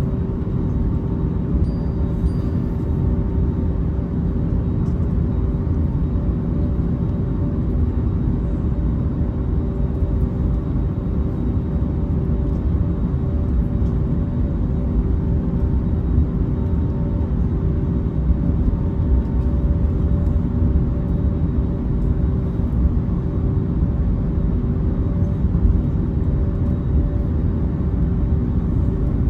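Airbus A321 jet engines running steadily, heard from inside the cabin as a loud, even rumble with a steady hum over it.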